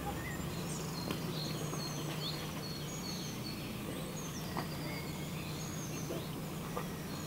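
Small birds chirping with many short, high calls, some sliding in pitch, over a steady low background hum.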